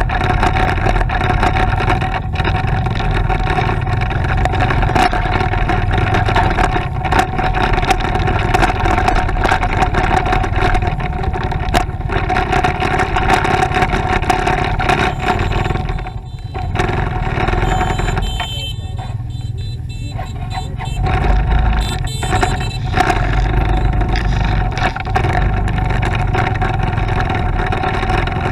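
Motorcycle engine running steadily while being ridden, with a constant hum over road and wind noise. It eases off and goes duller for a few seconds about two-thirds of the way through, then picks up again.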